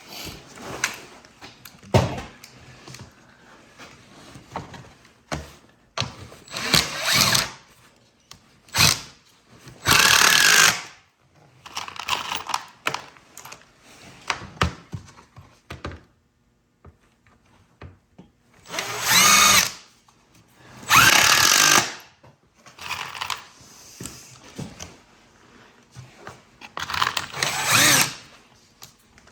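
Cordless drill driving screws into door hinges and woodwork, in several short bursts of about a second each, with clicks and knocks of handling the wood and hardware between them.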